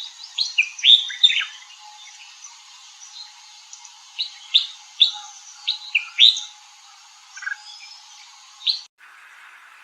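Red-whiskered bulbul calling: short, sharp chirping notes in two flurries, one about a second in and another around four to six seconds in, with a single note near the end. The recording cuts off abruptly just before the end.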